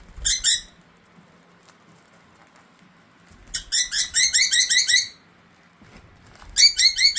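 Rapid strings of high, hooked chirps, about seven or eight notes a second, in three bursts: a brief one just after the start, a longer run from about three and a half to five seconds in, and another starting near the end.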